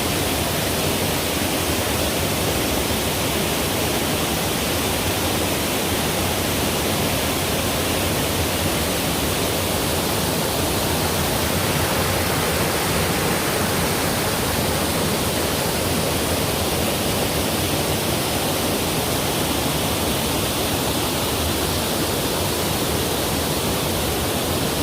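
Waterfall crashing: a steady, loud rush of falling water that holds even throughout.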